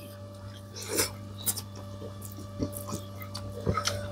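Mouth sounds of someone eating: a scattering of soft, short chewing clicks and smacks, over a steady low electrical hum.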